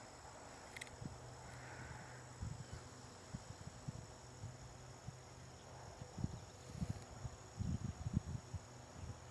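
Insects trilling steadily in a high, thin chorus. Irregular low thumps break in from a couple of seconds in and are loudest in the second half.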